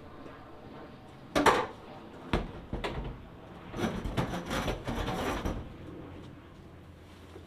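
A sharp knock, two more clunks, then a couple of seconds of clattering and scraping: parts and tools being handled during work on a truck's cab.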